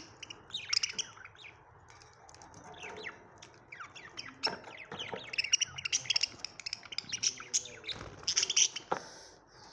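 A group of pet budgerigars chirping and chattering, with many quick overlapping chirps that get busier in the second half.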